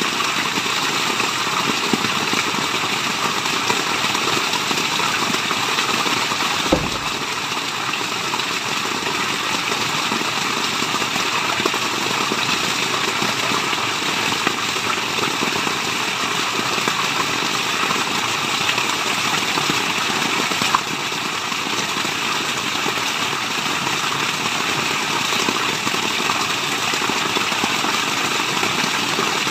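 Waterfall: an unbroken, even rush of falling water. There is a single soft knock about seven seconds in.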